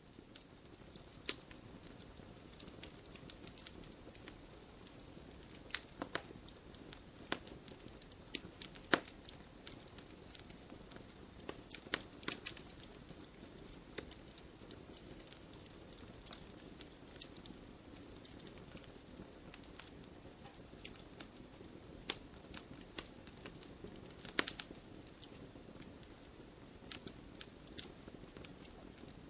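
Campfire burning: irregular sharp crackles and pops of burning wood over a steady low rush, with a handful of louder pops scattered through.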